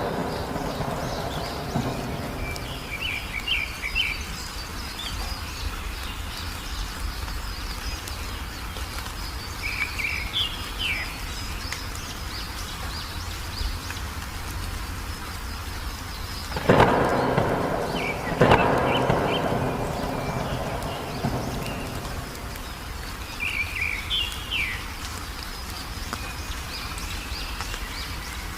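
Steady rain with two thunderclaps a little past halfway, about a second and a half apart, each trailing off in a rumble. A bird gives short bursts of chirps three times.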